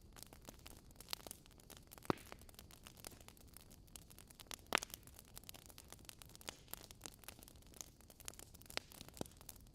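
Wood logs burning in a fireplace, crackling: a steady scatter of small crackles, with louder pops about two seconds in and again near the five-second mark.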